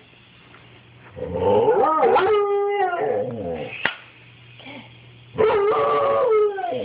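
Dog howling: two drawn-out howls, the first starting about a second in and the second near the end, each sliding down in pitch as it ends, with a single sharp click between them.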